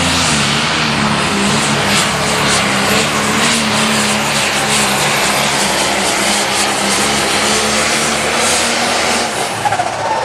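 Turbocharged diesel pulling tractor engine at full throttle under heavy load during a pull, a loud continuous roar that eases off near the end.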